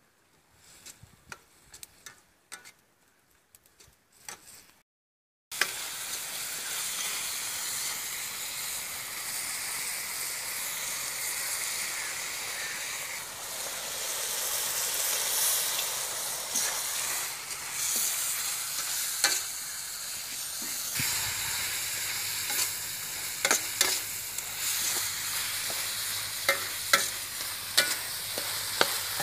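Chicken frying in oil in a wide metal pan over a wood fire, sizzling steadily from about five seconds in, with the flat metal spatula scraping and clicking against the pan as it is stirred. Before the sizzle starts there are only faint clicks.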